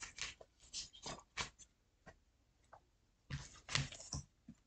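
A series of faint, light clicks and taps in two short clusters, one at the start and one about three and a half seconds in.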